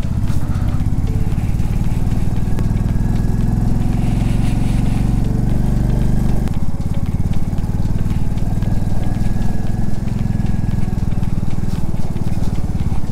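Royal Enfield Classic 350's single-cylinder engine running steadily as the bike is ridden over a rough, potholed stretch of mountain road. Its note changes about halfway through.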